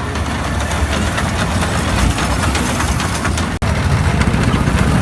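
An engine running steadily, a low rumble under a dense noisy hiss, with a momentary dropout about three and a half seconds in.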